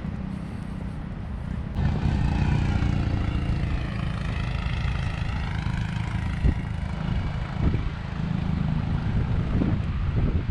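Steady low outdoor rumble, with a motor vehicle passing by from about two seconds in until about seven seconds in.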